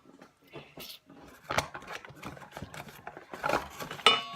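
Kitchen utensils clinking and scraping against a bowl as flour, salt and water are measured and mixed into salt dough, in scattered knocks, with a sharp clink near the end that rings briefly.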